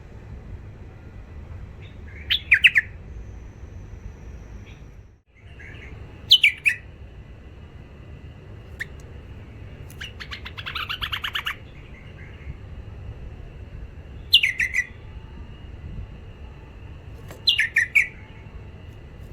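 Bulbul singing short, loud phrases of quickly falling whistled notes every few seconds, with one longer, rapid chattering run near the middle.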